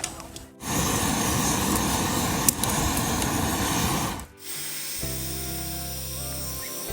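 A loud, steady rushing hiss that starts and stops abruptly, with a single click in the middle, followed by background music.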